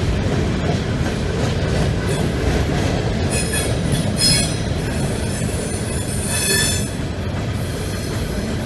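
Freight train rolling past, its steel wheels rumbling steadily on the rails. High-pitched wheel squeal rises twice, a little after a third of the way in and again past the middle.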